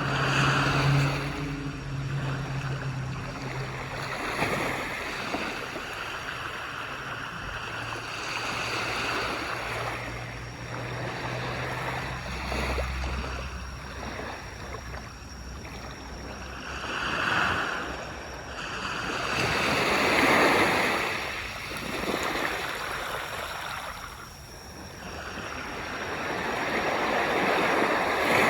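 Ocean waves washing onto a beach, the surf rising and falling in slow surges, with the biggest breakers in the second half and near the end. A low steady hum runs underneath for the first half.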